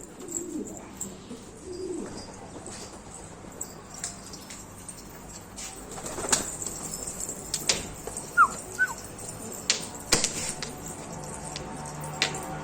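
Domestic pigeons flapping their wings in bursts, with sharp clattering knocks throughout. There is low cooing in the first two seconds and two short, high falling chirps about eight seconds in.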